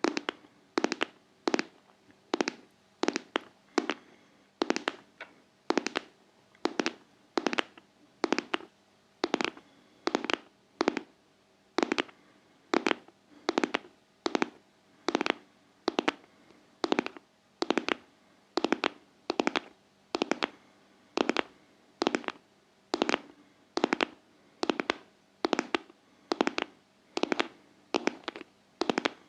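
ASMR tapping on a hard object: sharp, crisp taps repeating evenly about three times every two seconds, each a quick little group of strikes.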